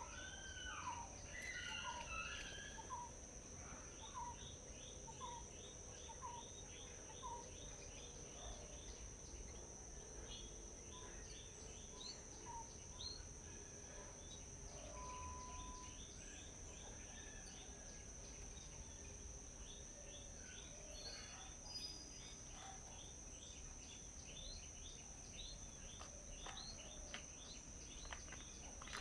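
Forest birds chirping and singing over a steady high-pitched insect drone and a low background rumble. A short repeated note sounds about every 0.7 s for the first seven seconds or so, with rapid chattering trills throughout.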